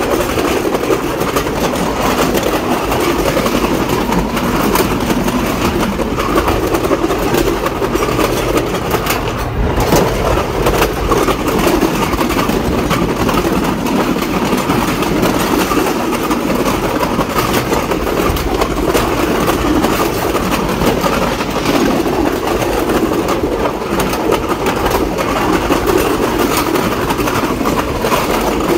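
Diesel train running steadily along the track: a constant rumble with the quick clatter of wheels over the rails.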